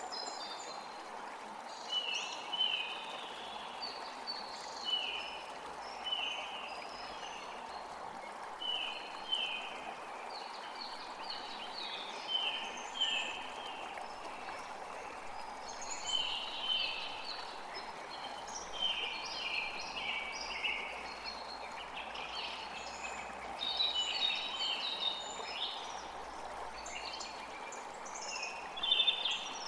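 Several birds singing, with bursts of short, quickly falling chirps repeated throughout, over a steady background rush.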